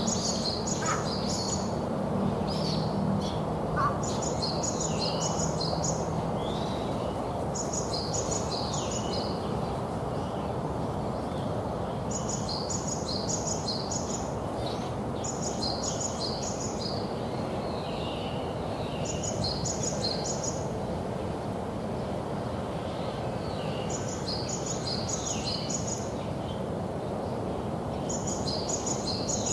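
A songbird sings a short, high, trilling phrase again and again, every few seconds, while other birds chirp faintly between the phrases. Underneath is a steady background hiss.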